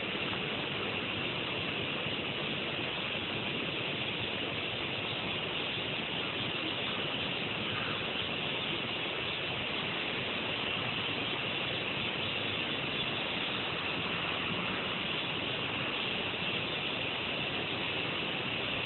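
Cicada singing: a steady, unbroken high buzz that holds at one level throughout.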